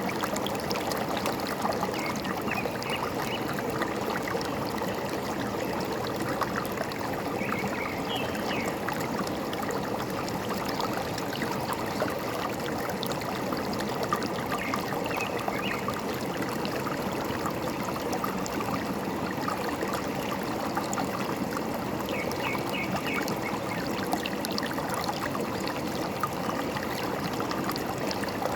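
Forest stream running steadily. A bird chirps in short runs of a few high notes about four times.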